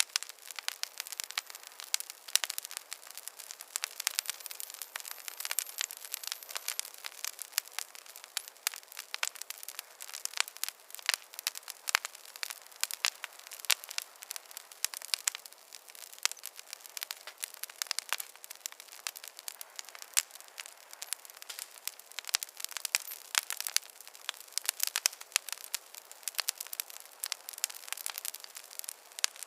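Wood fire crackling, a steady stream of irregular pops and snaps over a soft hiss.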